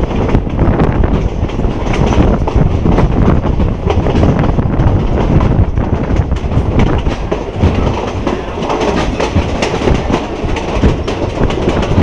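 Passenger train running along the track, heard from an open carriage window: a steady loud rumble with the clickety-clack of wheels over the rail joints.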